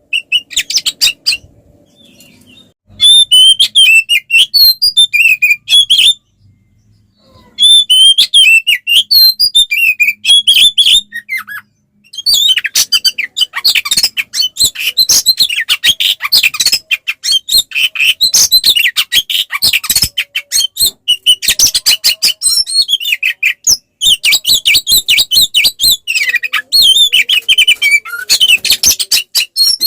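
Oriental magpie-robin singing a loud, rapid, varied song of whistles and chattering chirps. It sings in short phrases broken by brief pauses, then keeps up an almost unbroken stream of song from about twelve seconds in. This is the full, aggressive 'fighting' song that keepers use to provoke other males into singing.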